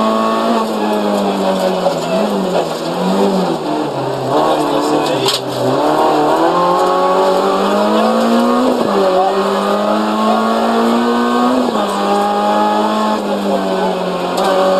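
Renault Clio RS rally car's four-cylinder engine, heard from inside the cabin at stage pace: it climbs in pitch through each gear and drops back sharply on the shifts and lifts. A single sharp knock about five seconds in.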